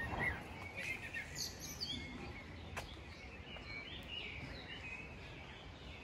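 Songbirds chirping and singing in short, quick calls over a steady low background rumble, with one sharp click about three seconds in.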